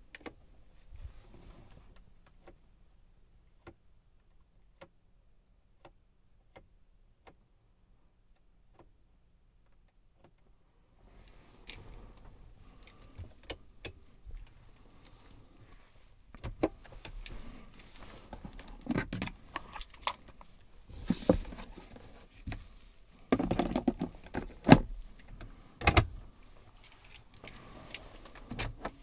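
A faint tick repeating a little more than once a second, then a run of clicks, rustles and knocks with a few heavy thuds, like parts of a car being handled and operated.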